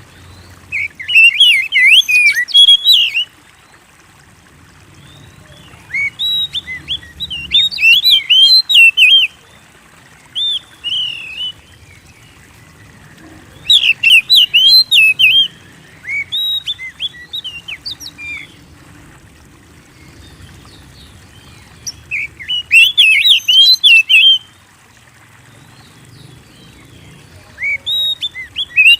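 Oriental magpie-robin (kacer) in full song: loud bursts of quick, varied whistled notes, each burst lasting a few seconds, with short pauses between them.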